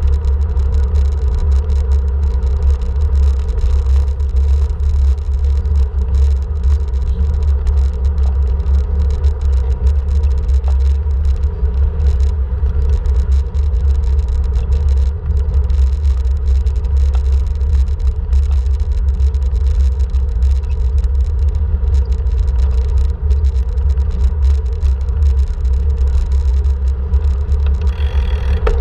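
Steady, loud low rumble of wind buffeting the microphone on a moving bike, with an even drone underneath and a short hiss near the end.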